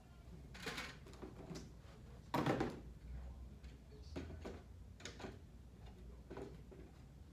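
Handling noises as a cricket bat and a weighing scale are moved about: several light knocks and scrapes, the loudest a short thump about two and a half seconds in.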